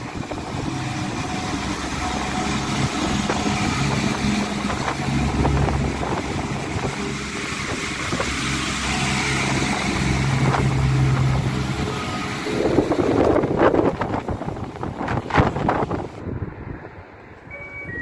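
Irish Rail diesel railcar train running past close by: a steady engine drone under loud wheel and rail noise, with a few gusty surges near the end as it goes by.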